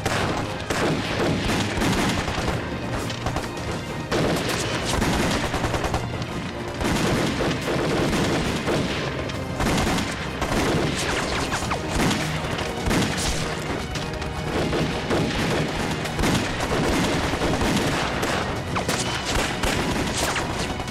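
Sustained gunfire in a battle: many rapid rifle and machine-gun shots overlapping, with occasional heavier booms, over a dramatic music score.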